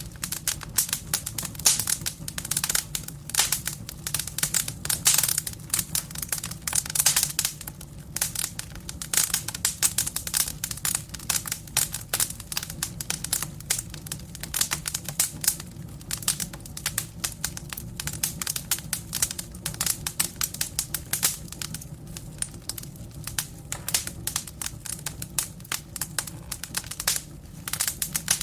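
Firewood burning in a fireplace: dense, irregular crackling and popping over a steady low rumble of the flames.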